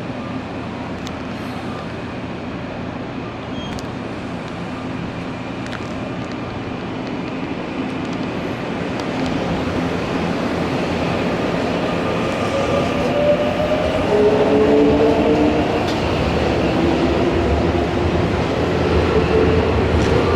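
Nankai electric commuter train moving at the station platform, a steady rail rumble that grows louder. From about twelve seconds in, a motor whine of several tones climbs in pitch.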